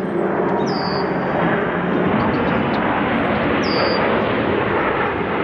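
Military jet flying past overhead: a loud, steady rushing jet noise that builds just before and holds throughout.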